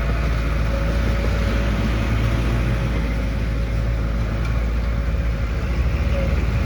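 Heavy diesel construction machinery running steadily, a dump truck or bulldozer engine with a deep, continuous rumble.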